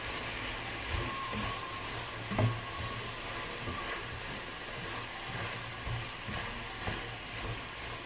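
Carrots, green beans and sliced hot dog frying in a pan: a steady sizzle, with a few knocks against the pan.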